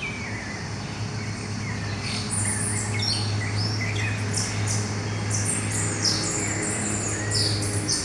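Dawn chorus of several wild birds singing and chirping, with high, quick notes that come thicker from about two seconds in. A steady low hum runs underneath.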